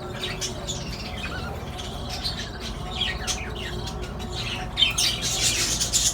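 A colony of budgerigars chattering, with many quick overlapping chirps and squawks that grow busier near the end.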